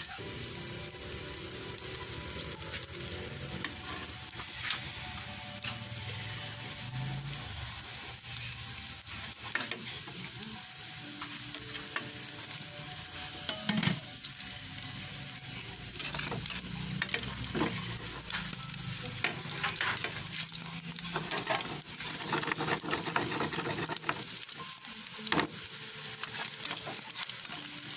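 Ground pork and sliced hotdogs sizzling in a frying pan with a steady hiss, while a spatula stirs them, clicking and scraping against the pan. The spatula strokes come more often in the second half.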